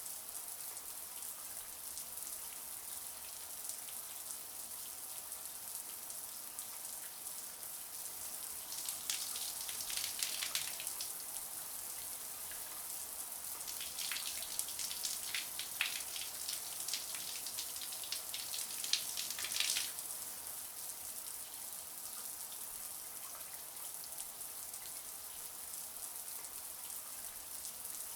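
Shower water running: a steady spray hiss and splatter of water falling onto a surface. It grows louder and more splashy for a couple of seconds around ten seconds in, and again for several seconds around fifteen to twenty seconds in.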